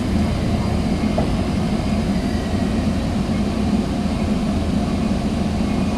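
Steady low rumble of a Sound Transit Sounder commuter train heard from inside a passenger coach.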